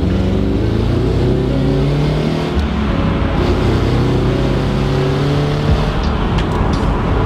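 Subaru BRZ's flat-four engine heard from inside the cabin, accelerating: the engine note climbs steadily, drops briefly about two and a half seconds in with a gear change, then climbs again.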